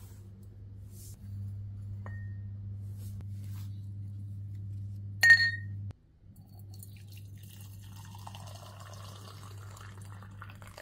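Glass clinks twice, a faint ping about 2 s in and a sharp ringing clink about 5 s in, over a steady low hum that stops briefly just before 6 s. After that, liquid runs or pours into a glass.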